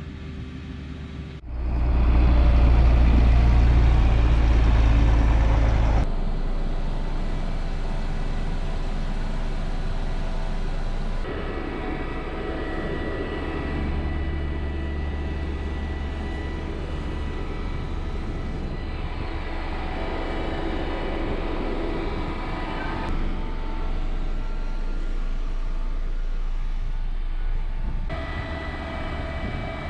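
Engines of heavy farm machinery running steadily during silage harvesting, in several short clips cut together. The loudest clip comes about two seconds in and lasts about four seconds.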